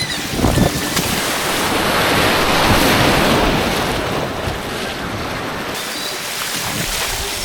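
White water rushing on an artificial slalom course, close to the microphone, growing louder for a couple of seconds in the middle before easing off.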